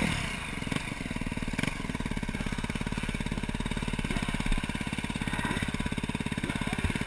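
2012 KTM 350 SX-F's single-cylinder four-stroke engine, fitted with a Yoshimura exhaust, settling into a steady, even idle, with a couple of small throttle blips in the first two seconds.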